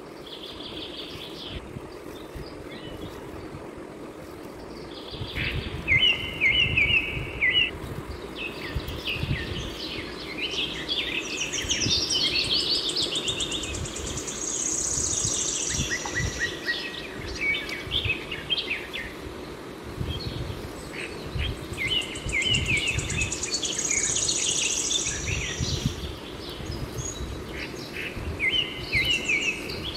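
Birds chirping and singing, with short song phrases that recur several times, over irregular low thuds.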